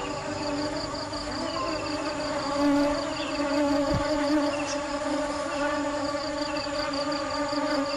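Steady insect-like buzzing drone, like a swarm of bees, made of several held tones with a fast flutter high up. There is one brief low thump about four seconds in.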